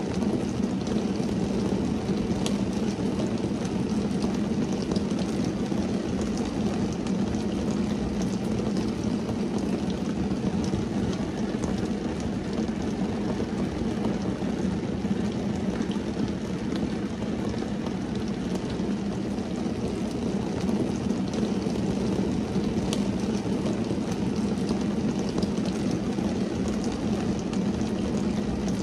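Steady rain drumming on a car's windshield and roof, heard from inside the cabin as a dense, low, even patter with a few sharper drop ticks.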